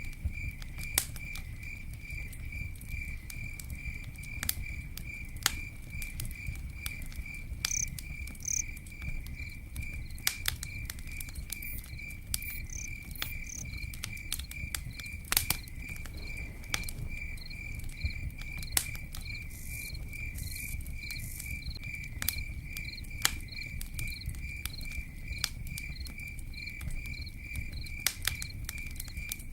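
Campfire crackling, with scattered sharp pops over a low steady rumble, while a cricket chirps in a fast, even pulse; a second, higher chirping insect joins about two thirds of the way in.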